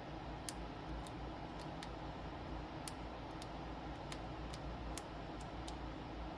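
Light, sharp clicks at irregular intervals, about a dozen, from small hand tools and plastic film being handled at a repair bench, over a steady faint room hiss.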